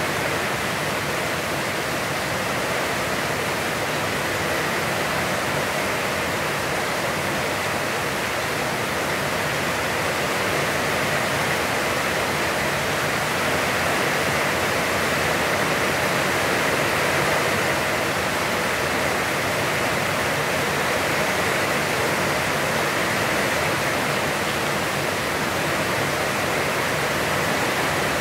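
Heavy, constant rain falling: a dense, steady hiss of drops with no let-up.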